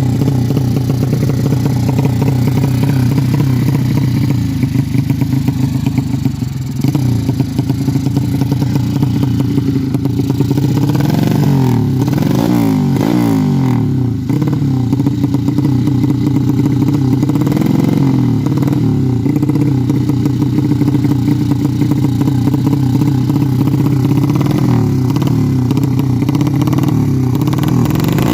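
200cc Yamaha Jupiter-based sleep-engine drag bike with a PWK Sudco 33 carburettor, running loudly at a steady fast idle while its carburettor is being set. From about ten seconds in, the throttle is blipped repeatedly, the engine revving up and falling back several times.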